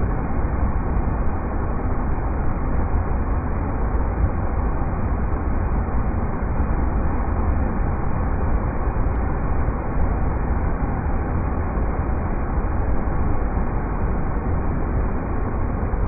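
River rapids rushing in a steady, unbroken wash of noise, heaviest in the low end.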